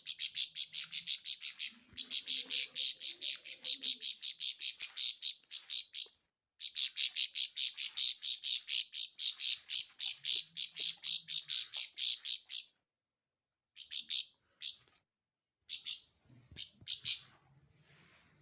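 A bird calling in rapid, harsh repeated notes, about seven a second, in long runs broken by short pauses, then a few shorter bursts near the end.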